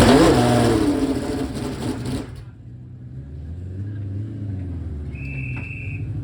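Ferrari 639's 3.5-litre V12 Formula One engine blipped hard, the revs rising and falling back in the first second, then settling about two seconds in to a lower, lumpy idle. A short high-pitched tone sounds for about a second near the end.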